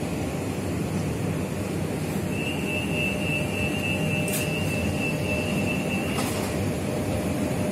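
Electric commuter train rumbling along a station platform. A steady high-pitched squeal joins about two seconds in and cuts off about six seconds in.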